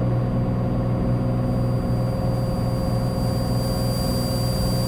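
Cessna 182's single piston engine and propeller at takeoff power, a steady drone with a few fixed tones, as the plane lifts off and begins its climb.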